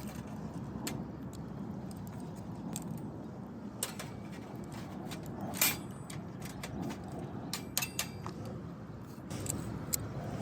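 Wood fire crackling in a compact grill stove: irregular sharp snaps and pops, the loudest a little past halfway. Under it runs a steady low rumble of passing road traffic.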